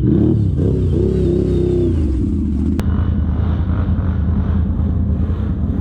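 ATV engine revving, its pitch rising and falling with the throttle, then settling about two seconds in to a steadier low rumble. There is a sharp click near three seconds in.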